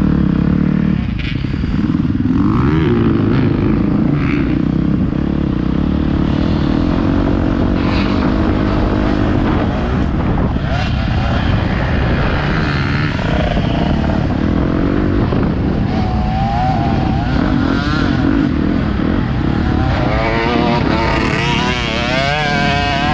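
Motocross bike engine running hard, revving up and down repeatedly through the throttle and gear changes, heard from close up on the moving bike.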